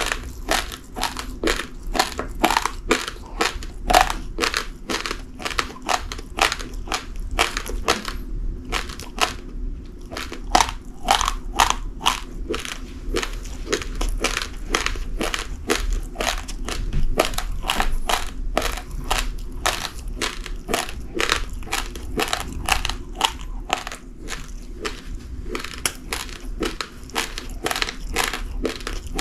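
Uncooked rice grains crunched between the teeth in a steady run of crisp crunches, about two to three a second, with a brief pause about nine seconds in.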